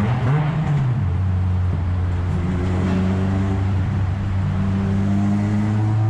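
Car engine heard from inside the cabin while driving through a tunnel, a steady drone whose pitch rises, drops about a second in, then climbs slowly as the car accelerates.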